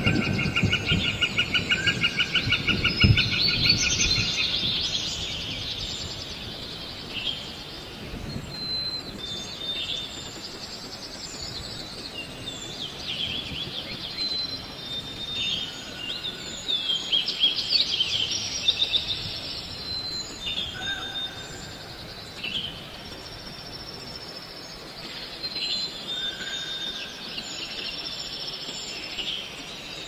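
Several birds chirping and calling over a steady background hiss, with a fast, even trill during the first four seconds and scattered short whistles and chirps after it.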